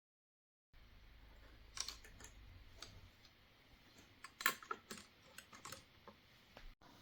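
A short gap of dead silence, then a scattered run of light clicks and taps from hands handling objects, most of them close together in the middle.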